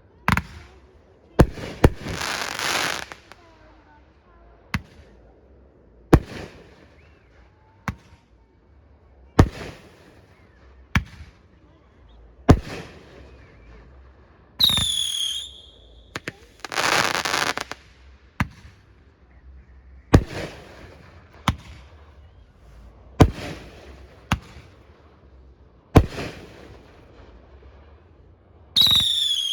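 Aerial fireworks shells bursting in a steady string of sharp bangs, one every second or two, with two longer rushing stretches among them. Two whistling fireworks give a falling whistle, one midway and one near the end.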